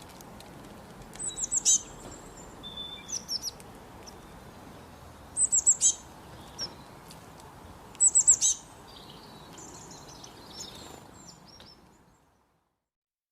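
A songbird singing: three loud phrases, each a quick run of four or five high, downward-sweeping whistled notes, about three seconds apart, with softer chirps from other birds between them over a steady outdoor hiss. The sound fades out about twelve seconds in.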